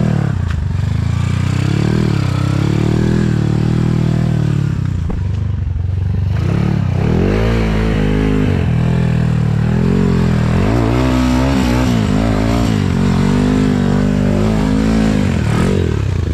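Dirt bike engine revving up and down over and over as it is ridden, the pitch climbing and falling every second or two.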